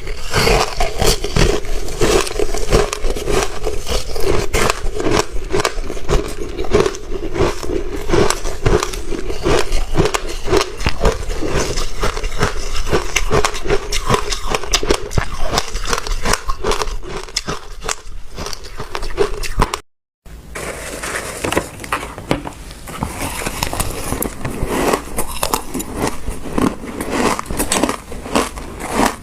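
Close-miked crunching and chewing of frozen passion fruit ice, a dense, rapid crackle of breaking ice. The sound cuts out for a moment about twenty seconds in, then the crunching resumes.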